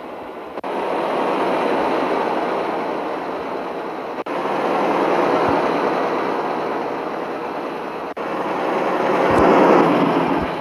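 An empty Mitsubishi Fuso truck under way, a steady rushing of engine, road and wind noise. The noise breaks off abruptly three times, about every four seconds.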